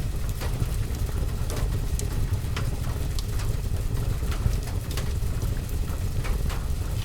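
Wood fire crackling in a fireplace, with irregular sharp pops and snaps, over a steady low rumble and a soft hiss of rain.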